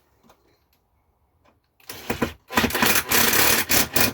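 Cordless electric screwdriver running in two bursts, a short one about two seconds in and a longer one of about a second and a half, driving a screw down into the spa pump housing.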